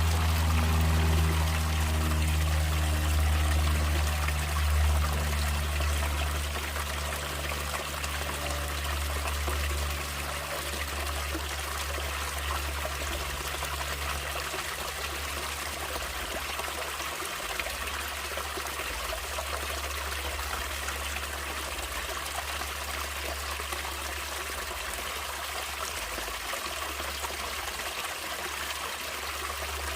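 Natural stream water flowing and trickling steadily. Soft background music fades out over the first several seconds.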